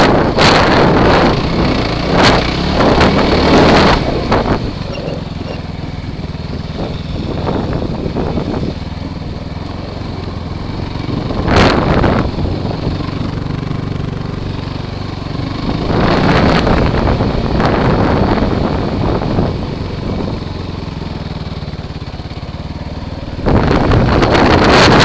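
Kawasaki KFX quad's engine running as it is ridden, with wind buffeting the microphone in gusts that swell over the engine in the first few seconds, briefly mid-way, and again near the end.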